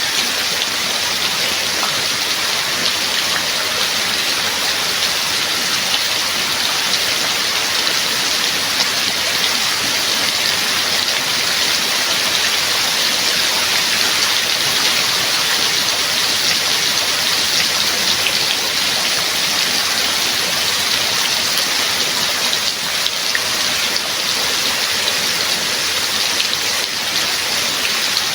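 Steady rain falling: a dense, even hiss of many drops that holds at one level throughout.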